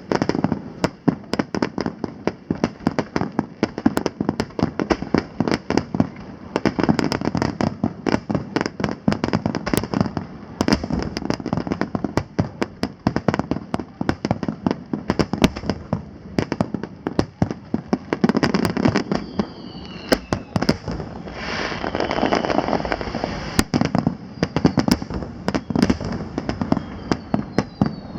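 Aerial fireworks display: a dense, continuous crackle of many shells bursting and popping, with deeper bangs among them. A few whistles falling in pitch come in the second half.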